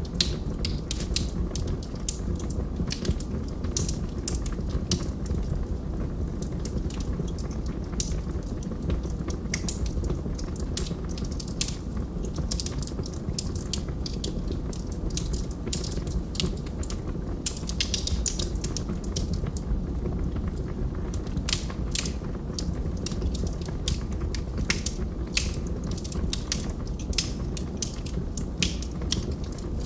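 Wood fire burning in a fireplace: a steady low roar of flames with frequent irregular crackles and pops from the burning logs.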